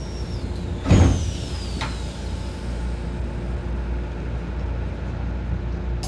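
Keisei 3000 series electric commuter train: a steady low rumble with a constant hum. There is a loud knock about a second in, and a high whine falls in pitch over the first two seconds.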